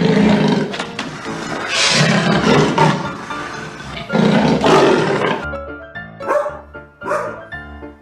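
A large animal roaring: a roar fading just after the start, then two more loud roars about two and four seconds in, over background music.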